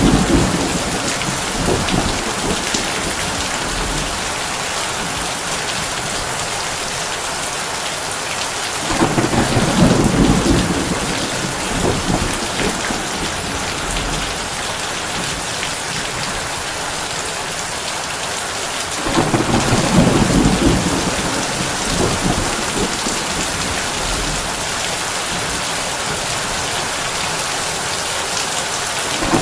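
Heavy rain falling on a tin roof, a steady hiss, with a low thunder rumble about every ten seconds: at the start, about nine seconds in, and about nineteen seconds in.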